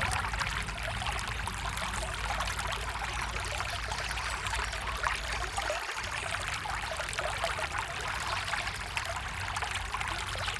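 Stream water running steadily, a continuous trickling and splashing with many small splashes.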